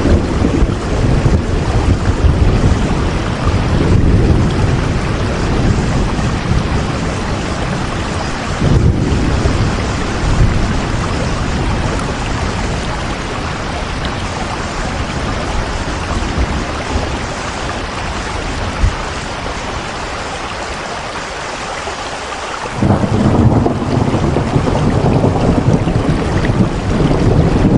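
Steady heavy rain with a deep low rumble under it. The rumble dies away partway through, then cuts back in suddenly near the end.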